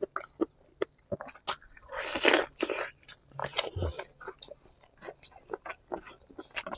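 Close-up biting and chewing of spicy braised pig feet: irregular wet smacks and clicks, with one louder, longer rush of noise about two seconds in.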